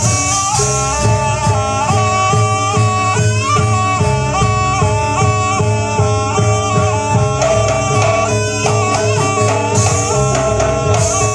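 Live Jaranan Buto ensemble music: a reedy wind melody moving in steps over a steady, regular drum pattern.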